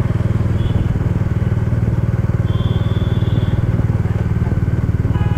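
Bajaj Dominar 400's single-cylinder engine running steadily while the bike cruises slowly at about 25 km/h, heard close up from the bike.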